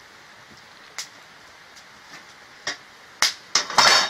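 Wood fire crackling, with a few separate sharp pops of burning wood and a louder, quick run of pops near the end.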